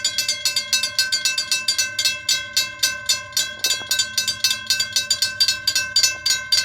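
Railroad crossing bell ringing steadily in fast, even strikes, about four to five a second, each strike leaving a ringing tone: the crossing warning signal for an approaching train.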